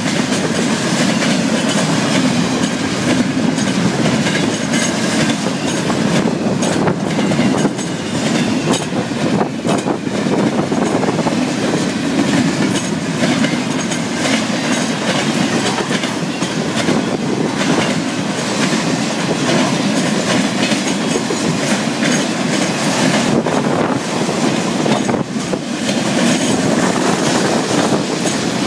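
Freight train cars rolling past at close range, double-stack container well cars and then autorack cars: a steady rumble and rattle of steel wheels on the rails, with scattered clicks as the wheels cross rail joints.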